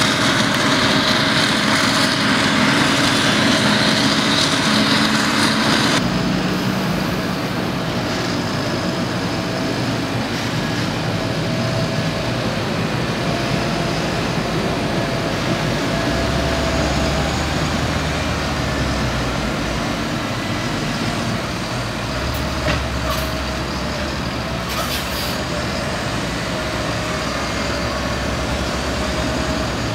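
Heavy diesel farm machinery running steadily during maize chopping. A loud rushing noise over the engines cuts off suddenly about six seconds in, leaving a deeper steady engine drone.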